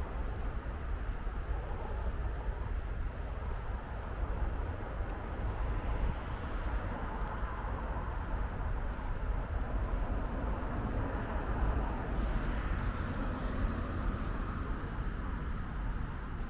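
Steady outdoor city ambience: a continuous low rumble under a noisy haze, with no distinct single events.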